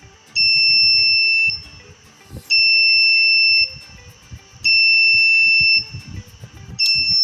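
Piezo buzzer on a smart-helmet prototype sounding its alarm: shrill beeps about a second long, one every two seconds, running into a steady tone near the end. It signals that the alcohol sensor has picked up the lighter's gas and the engine has been cut.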